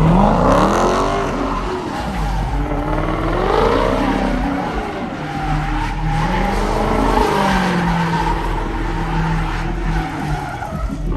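A car engine revving up and down repeatedly with tyres squealing, as in a burnout or doughnuts.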